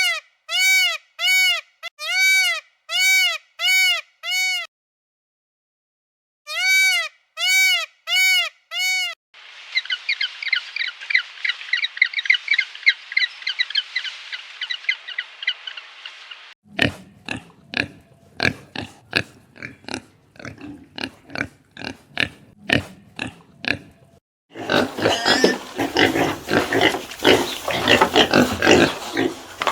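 A succession of different animal calls: two groups of short, evenly spaced honking calls, then several seconds of rapid high-pitched chattering, then a run of sharp clicking pulses, and near the end dense rough grunting.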